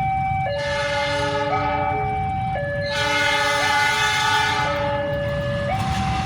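A two-tone hi-lo warning signal that switches between a higher and a lower pitch about once a second, over a steady low rumble.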